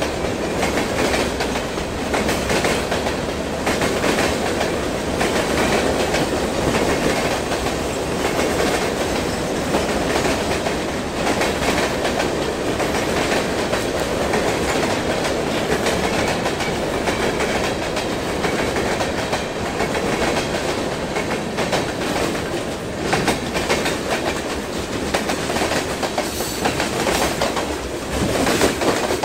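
Freight cars rolling past, their steel wheels clicking over the rail joints in a steady clickety-clack over a continuous rumble, with a few sharper clacks near the end.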